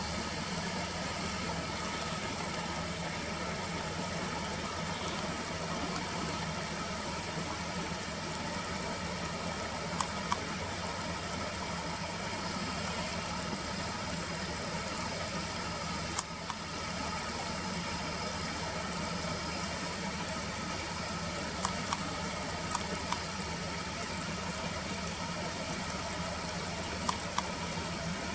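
Steady mechanical hum, like an engine or machine running, with a few short faint clicks.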